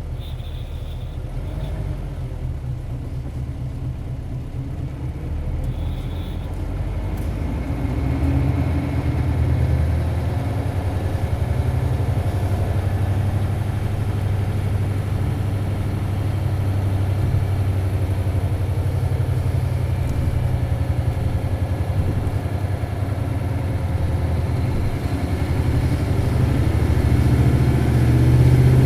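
Isuzu 8PE1-S V8 diesel engine of an Isuzu Cubic city bus, heard from inside the cabin, running under load with a deep, steady drone. It gets louder about a quarter of the way in as the engine pulls harder, and louder again near the end.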